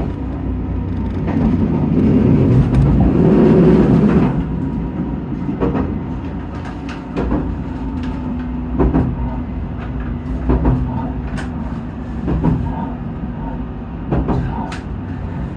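Cabin sound of a JR Shikoku 2000 series diesel tilting train rolling slowly into a station. A steady low rumble runs throughout, and single wheel clacks over rail joints come at gradually wider spacing as the train slows.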